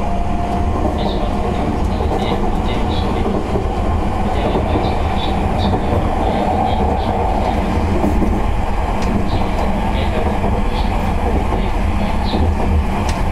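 JR West 227 series electric train running at speed, heard from the gangway between cars: a steady loud rumble of wheels on rail, with short creaks and squeaks from the gangway scattered throughout.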